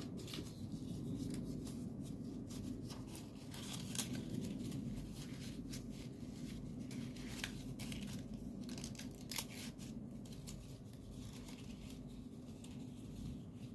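Folded paper origami units rustling and crackling in the hands as their tabs are slid into pockets to join the kusudama, with scattered small ticks, over a steady low hum.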